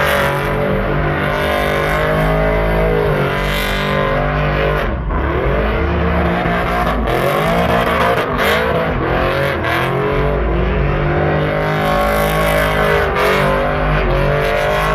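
Truck engines revving hard and repeatedly, pitch climbing and dropping every second or two, over a steady rush of tyre noise from lowered trucks spinning donuts.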